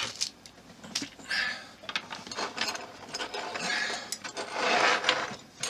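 Small screws and plastic model parts being handled and moved about on a work surface: scattered clicks and a few rattling, rustling stretches.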